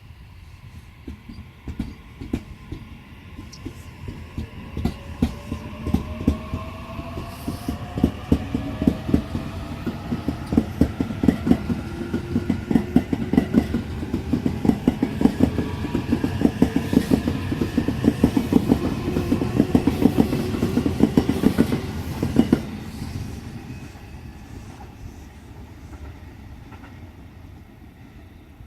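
E657-series electric multiple unit pulling out and accelerating, its motors whining up in pitch while the wheels clack over the rail joints faster and louder. The clatter stops abruptly a little over 22 seconds in as the last car goes by, leaving a quieter hum.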